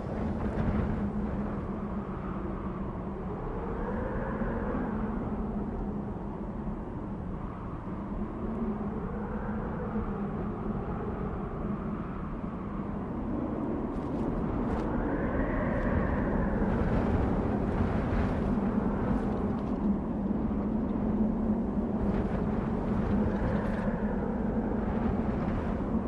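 Desert wind blowing steadily, with a howling tone that swells and falls in pitch every few seconds, over a steady low hum; it grows a little louder about halfway through.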